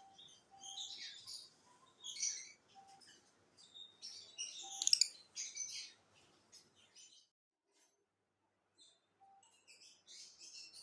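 Small pet parrots chirping in quick high bursts, loudest about halfway through. The chirping stops for about two seconds, then starts again near the end.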